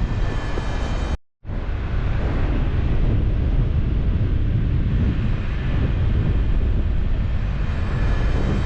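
Airflow rushing over the microphone of a paraglider pilot in flight, a steady loud buffeting. It cuts out abruptly for a moment about a second in, then resumes.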